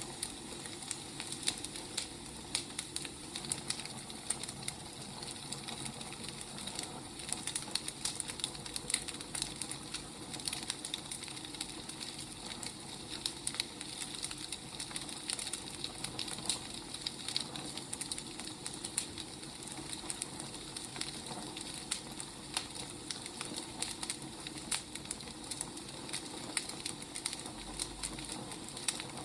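Firewood burning and crackling: a steady hiss with frequent, irregular pops and snaps.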